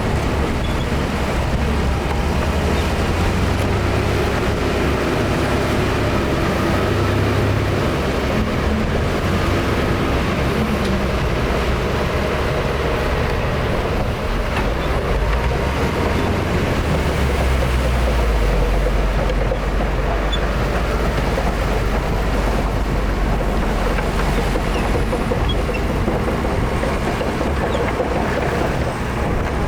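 Heavy diesel earthmoving machinery running steadily under load, its low engine note shifting a few times.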